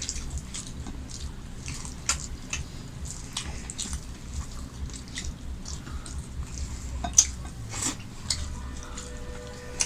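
Close-up eating sounds of a person chewing pulao and chicken roast: irregular wet mouth clicks and smacks, over a steady low hum.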